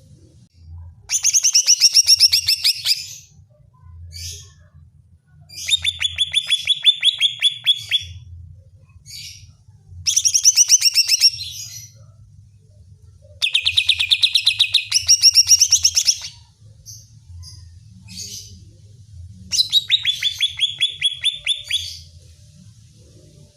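Greater green leafbird (cucak ijo) singing in five bursts of rapid, trilled high notes, each about two seconds long, with short single chirps between the bursts. This is a heated, insistent song of the kind used to provoke a captive cucak ijo into singing.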